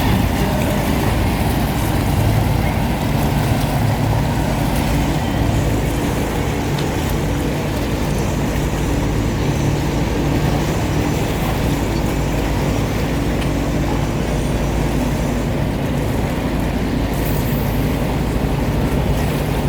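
Engine running steadily with a low hum, over a constant wash of outdoor noise.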